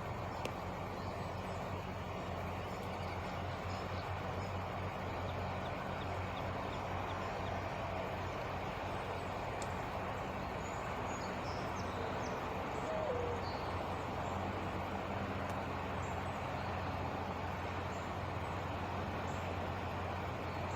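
Steady low mechanical hum, like an idling engine, with faint bird chirps over it.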